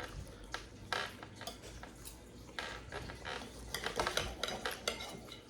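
Cutlery clinking and scraping on a plate in short irregular taps, as a steak is cut and eaten with knife and fork.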